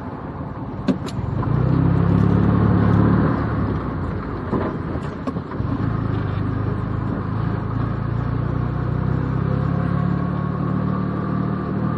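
1972 Fiat 500's air-cooled two-cylinder engine heard from inside the cabin while driving. It pulls harder for a couple of seconds near the start, then runs steadily at low speed, with a few faint clicks.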